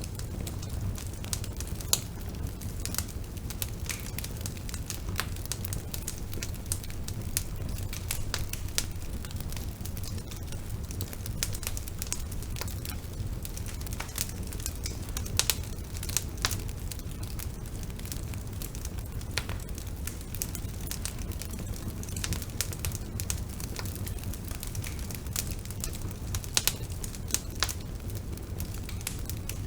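Bonfire burning, a steady low rumble of flames with frequent, irregular sharp crackles and pops of burning wood.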